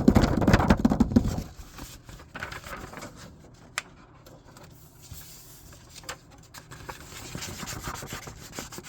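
Paper being handled and rustled close to the microphone, loud and dense for the first second and a half, then softer scattered rustling with a single sharp click about four seconds in.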